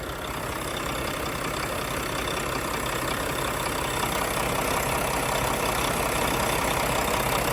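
Mack MP8 inline-six diesel engine idling steadily, slowly growing louder.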